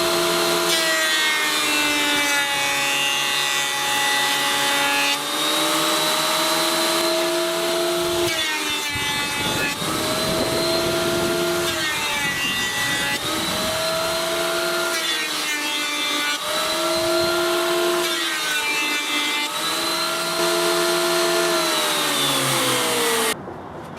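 Thickness planer running as a board is fed through for flat, true faces. Its motor note sags and recovers about five times, then cuts off suddenly shortly before the end.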